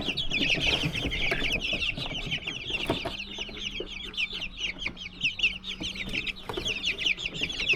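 A brood of young chicken chicks peeping constantly, many short falling chirps overlapping. A faint steady hum joins in for a few seconds in the middle.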